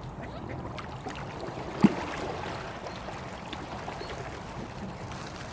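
Steady rush of lake water, with one short, sharp call or knock about two seconds in.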